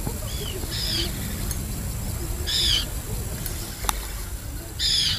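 A bird calling three times, short high calls about two seconds apart, over a steady low rumble, with a single sharp click in between.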